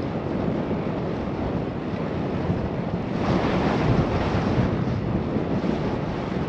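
Wind rushing over the camera microphone while riding a bicycle, a steady low rumble, with a louder spell of hiss about three seconds in that lasts over a second.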